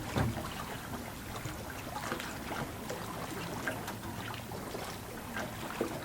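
Water lapping and splashing against a boat's hull, an irregular trickling patter, with a sharp click right at the start.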